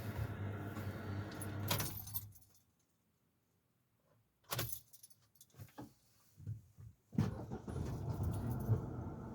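Car engine idling, then switched off and dying away about two seconds in; after a short silence the keys jangle and click in the ignition, and the engine starts again with a sudden burst about seven seconds in and settles back into a steady idle.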